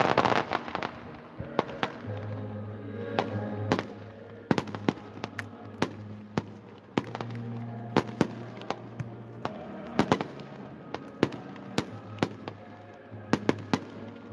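Fireworks going off: many sharp bangs and cracks at irregular intervals, over music with long held low notes.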